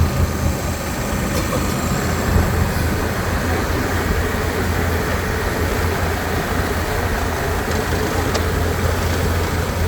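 Tour boat's engine running with a steady low drone and an even rushing noise over it.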